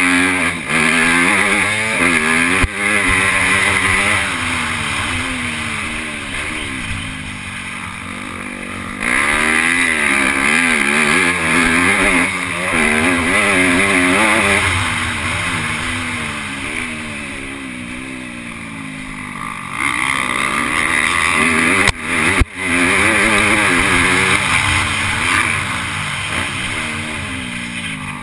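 MX2 motocross bike's engine heard from on board while racing, the revs rising and falling again and again as the throttle is opened and closed, easing off for a couple of quieter stretches. Two sharp knocks come about three quarters of the way through.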